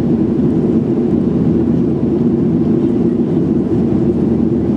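Steady cabin drone of a Boeing 737-800 in flight: the CFM56 engines and the rush of air along the fuselage, heard from inside the passenger cabin as an even, deep rumble with no change.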